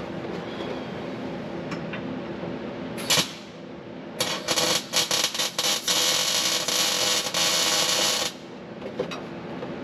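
MIG welder tacking steel roll-cage tube: a brief arc about three seconds in, then a few stuttering short arcs that settle into a steady crackling arc for about two seconds, stopping suddenly about eight seconds in. A steady low shop hum runs underneath.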